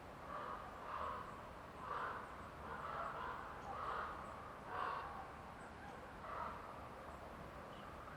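A bird calling over and over, short coarse calls about once a second, then one more after a pause, over a faint steady hiss of forest ambience.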